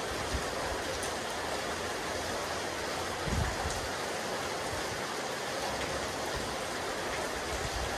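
Steady rain falling on a rooftop terrace, an even, unbroken hiss, with one brief low thump about three seconds in.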